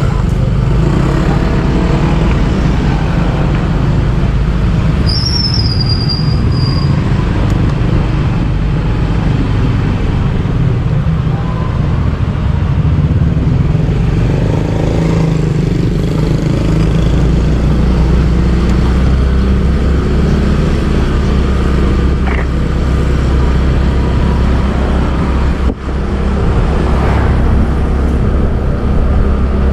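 Motorbike engine running steadily under the rider with street traffic noise around it. A brief high squeal comes about five seconds in.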